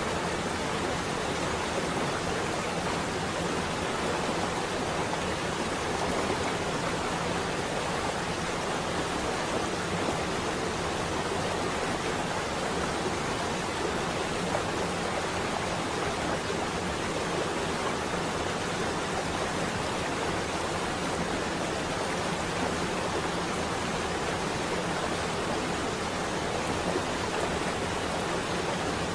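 Steady rain falling on a window glass, an even hiss with no thunder.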